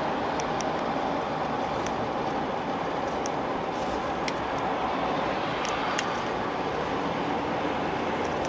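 Steady highway road noise of passing vehicles, an even hiss with a few faint ticks.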